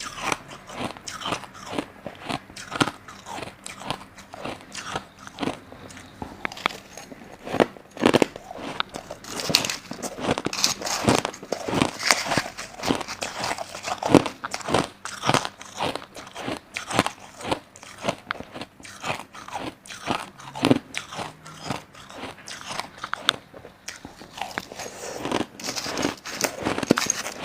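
A person biting and chewing crushed ice, with dense, irregular crunching and crackling several times a second.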